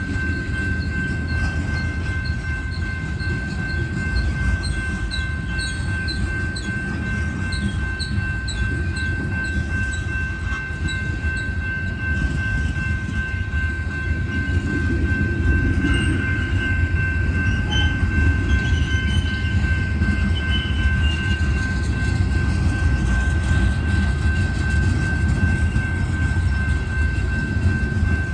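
Coal train freight cars rolling by on the rails: a continuous low rumble with a faint steady high tone above it.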